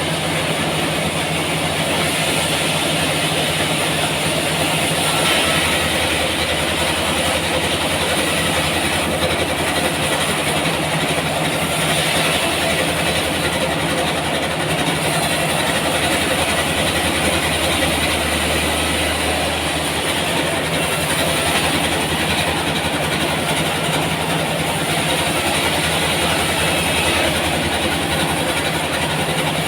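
Sawmill machinery running steadily: a loud, continuous noise with a low hum and no breaks.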